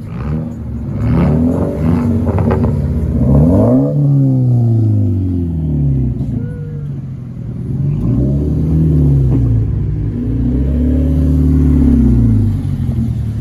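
Car engine revving, its pitch climbing for a few seconds to a peak about four seconds in and dropping, then rising and falling twice more.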